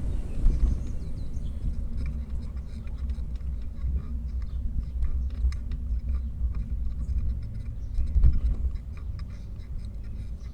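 Low rumble of wind buffeting the microphone while riding, with many small irregular clicks and rattles over it from about two seconds in.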